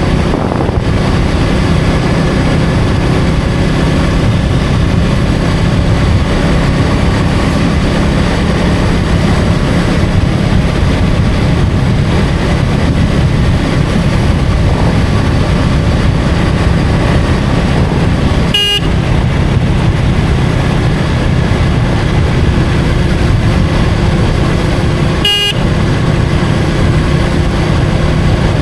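KTM Duke 250 single-cylinder engine running steadily at cruising speed, with wind and road noise. Two short horn toots sound, about six and a half seconds apart, past the middle.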